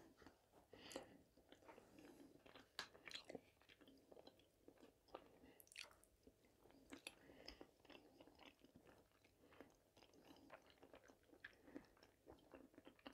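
Faint, close-miked chewing and biting of soft potato-filled vareniki with sour cream: many small wet mouth clicks, with the occasional light tap of a fork against the plate.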